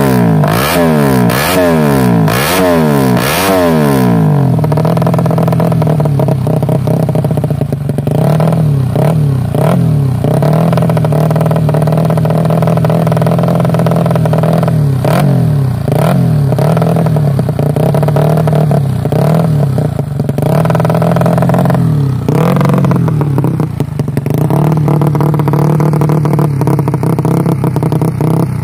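Bored-up Suzuki Smash four-stroke single-cylinder motorcycle engine through an aftermarket racing slip-on exhaust, revved in about five quick throttle blips, then idling steadily with a few single blips now and then.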